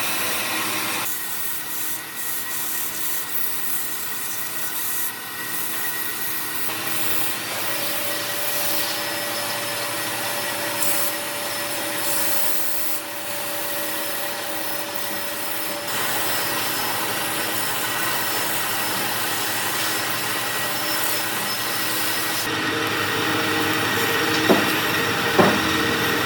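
Wood lathe running with a steady hum while something rubs against the spinning wood-and-epoxy blank, with two sharp knocks near the end.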